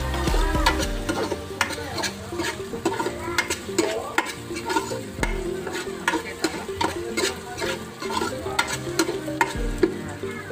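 Chopped ginger sizzling in hot oil in an aluminium pot while a spatula stirs it, clicking and scraping against the pot's sides and bottom many times.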